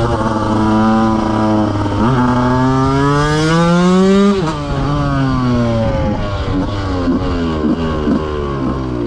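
KTM 125 motorcycle engine under hard acceleration, its pitch climbing through the revs until it drops sharply about four seconds in. It then winds down, with a run of short rev blips near the end as the bike slows through the gears.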